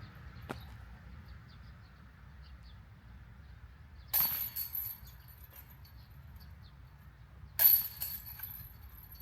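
Two disc golf discs hitting the chains of a metal basket, about three and a half seconds apart, each a sharp clash followed by a brief jingle of chains; the second hit is louder.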